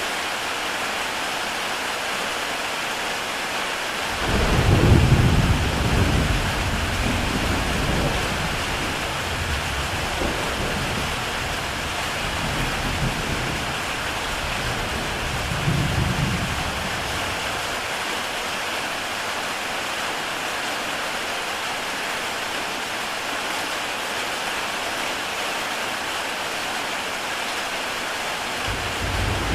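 Heavy rain falling on a tile roof, a steady hiss throughout. About four seconds in, a long roll of thunder starts suddenly, swells again towards the middle, and dies away after some thirteen seconds.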